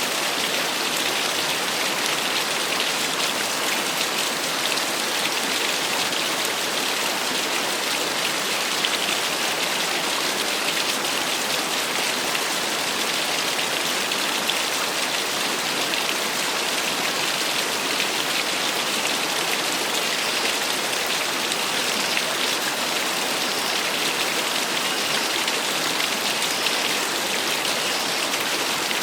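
Small waterfall: a steady, unbroken rush of splashing water.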